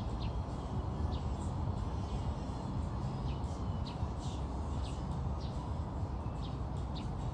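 Birds chirping in short, high, falling calls about once a second, over a steady low outdoor rumble.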